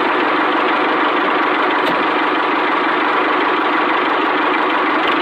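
Small engine of a mini tractor running steadily at an even speed.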